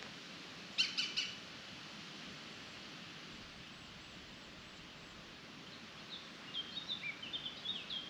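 Wild songbirds calling over a steady soft outdoor hiss: a quick burst of three or four sharp calls about a second in, then a run of short, quick chirping notes near the end.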